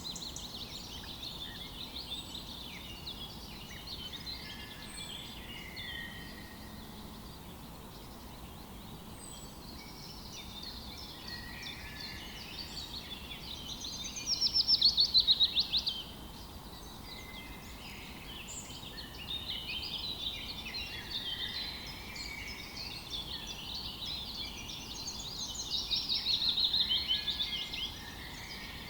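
Several songbirds chirping and singing over each other, with two loud, fast trills of rapidly repeated notes, one about halfway through and one near the end.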